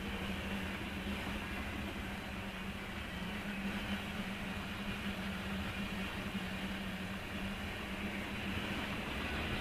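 Freight train of tank cars rolling steadily past, heard from inside a stopped car's cabin, with a steady low hum beneath.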